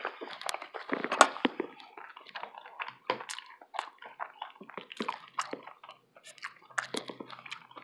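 A person chewing a mouthful of breakfast burrito, with irregular clicks and smacks of the mouth throughout.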